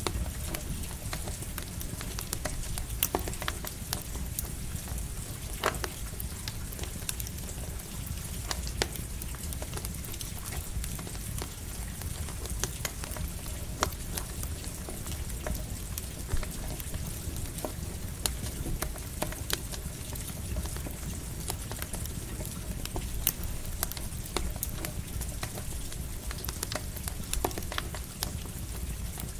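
Campfire crackling, with sharp pops every second or so, over a steady hiss of light rain and a low rumble.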